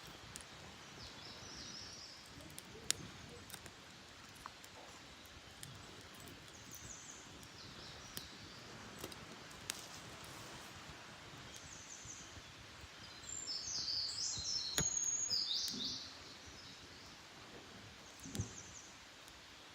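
Wild songbirds singing in short high phrases every few seconds, with a louder run of song about two-thirds of the way through. A few sharp pops from a wood campfire.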